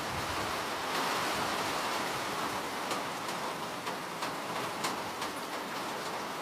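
Steady rain hiss, with single drops ticking sharply through it, more often in the second half.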